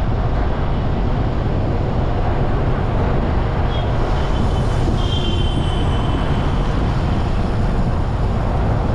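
Steady road noise and wind rush from riding a bike along a busy street, with vehicle traffic around. Brief faint high tones come about four and five seconds in.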